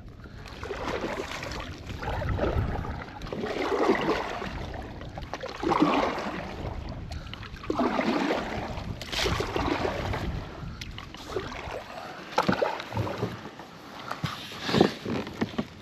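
Kayak paddle strokes dipping and splashing in the water, a stroke about every two seconds.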